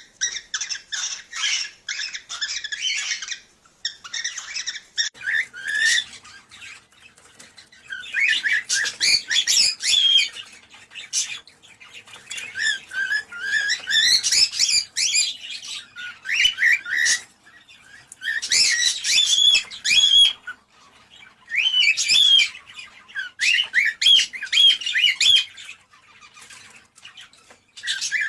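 Cockatiels chirping and whistling in bursts a few seconds long, separated by short pauses: rapid, bending high-pitched notes.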